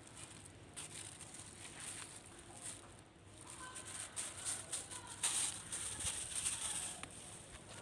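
Scattered rustling and light tapping, louder from about five seconds in, with a faint brief whine about three and a half seconds in.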